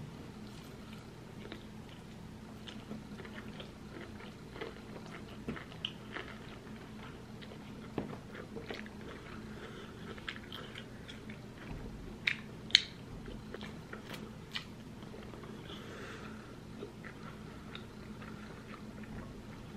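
Close-miked chewing of cheesy spicy Korean noodles, with many small wet mouth clicks and smacks over a low steady hum. A single sharp click about two-thirds of the way through is the loudest sound.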